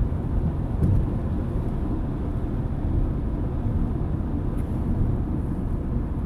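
Steady low rumble of a car travelling at highway speed, heard from inside the cabin: road and engine noise.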